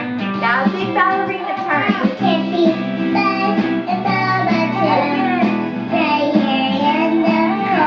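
Children's song: a child-like singing voice over instrumental accompaniment.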